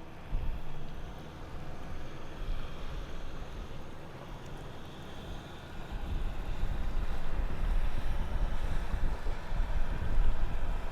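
Wind buffeting the microphone over the wash of water. The low rumble grows louder about halfway through.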